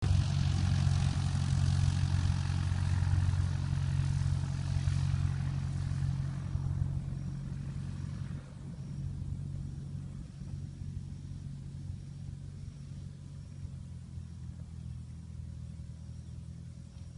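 Cessna light aircraft's engine and propeller running at high power for takeoff: a steady low drone under loud rushing noise, which eases about eight seconds in while the engine tone carries on steadily.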